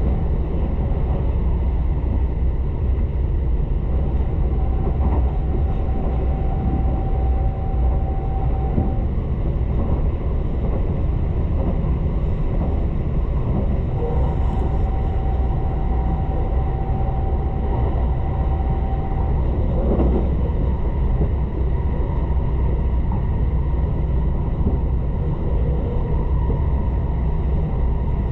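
Tobu limited express electric train running between stations, heard from inside the passenger cabin: a steady low rumble of wheels on rail. A thin steady whine comes and goes twice.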